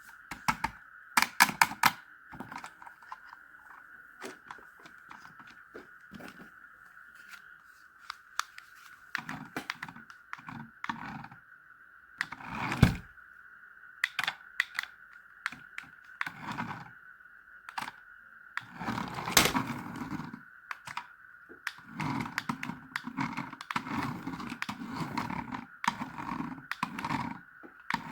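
Toy RC monster truck being handled or run: a string of sharp clicks and knocks, then, from about two-thirds of the way through, louder short bursts repeating about once a second.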